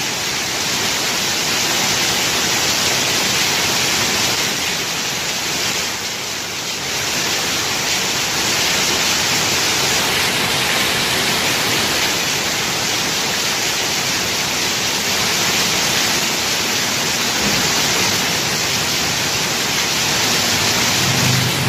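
Heavy rain pouring down steadily, a dense even hiss. A faint low hum comes in near the end.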